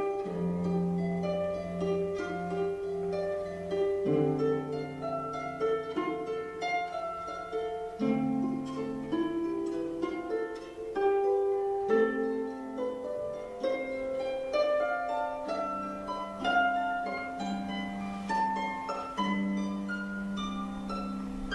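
Irish harp playing a flowing run of plucked notes over bass notes that change about every four seconds.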